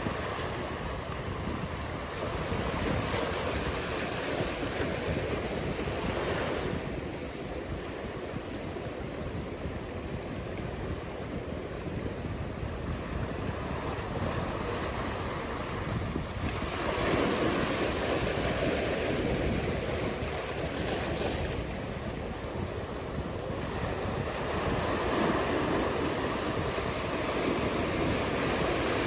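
Ocean surf: a steady wash of breaking waves that swells louder several times as sets come in.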